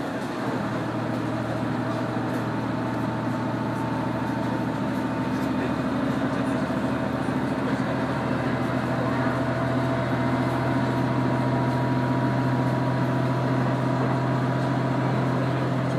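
KiHa 100 diesel railcar running along the line, heard from inside the car: a steady engine hum comes up about half a second in and holds, over the constant running noise of the wheels on the rails.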